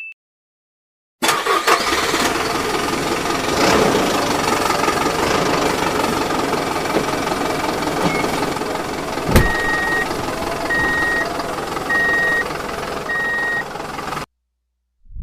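A motor running steadily, with a sharp click about nine seconds in, then four short evenly spaced high beeps.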